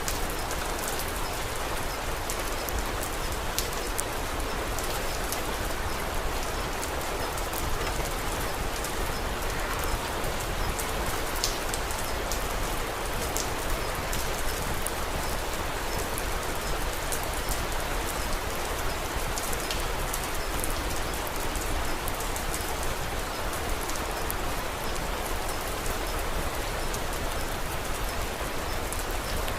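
Steady rain falling, an even hiss with scattered small sharp ticks from a crackling wood fire.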